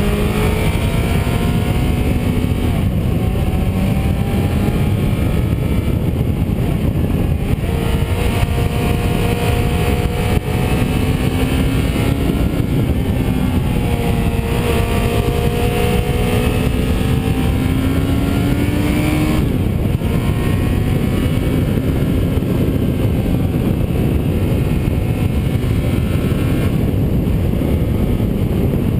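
A vehicle's engine driving a twisting road, its pitch climbing slowly and then dropping several times, over a steady low rumble.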